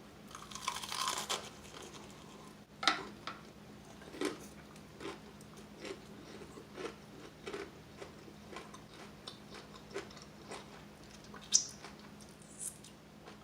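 Close-miked biting into a crispy, heavily breaded fried chicken wing, with a dense crunch in the first second or so. Steady crunchy chewing follows, about one chew every 0.7 s, with a few sharper cracks of the crust.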